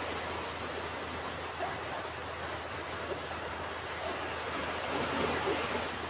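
Ocean waves washing onto a beach: a steady wash of surf noise that swells gently, a little stronger near the end.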